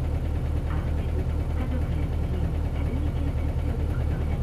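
Isuzu Cubic bus's 8PE1-S V8 diesel engine running steadily at low revs, an even deep throb with no revving.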